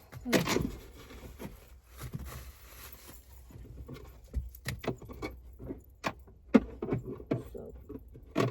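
Small objects being handled and moved about inside a car: irregular clicks, knocks and rustling, the loudest knocks about half a second in and about six and a half seconds in.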